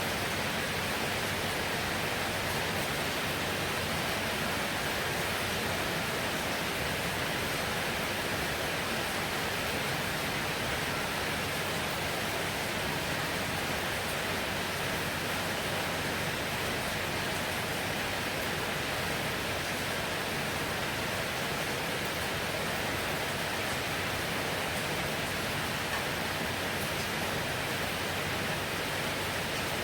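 Heavy rain falling steadily: a dense, even hiss with no breaks or thunder.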